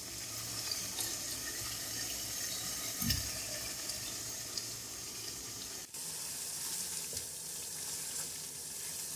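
Mutton korma with tomato slices cooking in ghee in a pan: a steady sizzling hiss with faint crackles, and a soft low thump about three seconds in.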